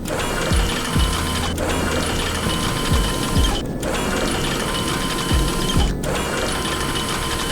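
Animated machinery sound effect: a steady mechanical whirring and ratcheting with low thumps about every half second, broken by brief dropouts roughly every two seconds as the loop repeats.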